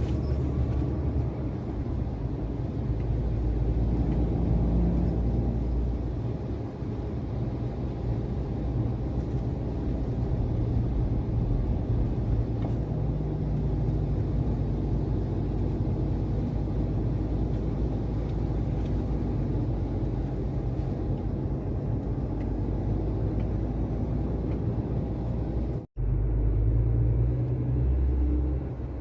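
Heavy truck engine running steadily with a low rumble, pulling a loaded log container. A momentary break in the sound comes near the end.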